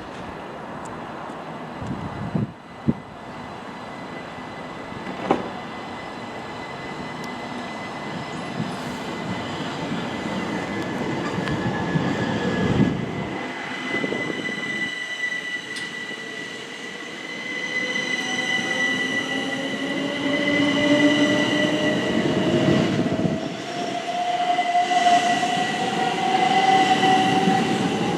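Southeastern Class 375 Electrostar electric multiple unit moving through the station, with a high steady squeal and a motor whine that rises steadily in pitch over the second half as the train picks up speed.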